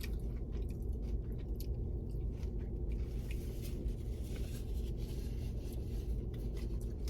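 Close-up chewing and biting sounds of someone eating tacos, with small irregular crackles over a steady low hum.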